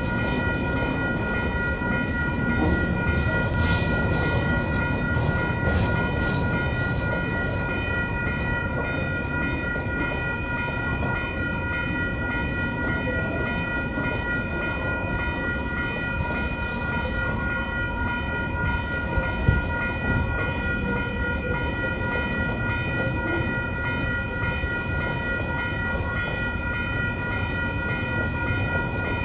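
Empty log wagons of a freight train rolling steadily past, with a continuous low rumble of wheels on rail. A level-crossing warning bell rings throughout as an unchanging high-pitched tone. A single sharp clunk comes about twenty seconds in.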